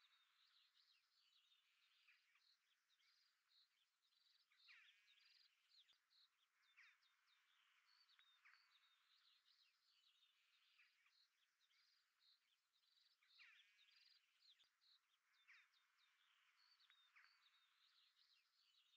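Near silence with faint songbirds chirping and trilling, a high call every second or so.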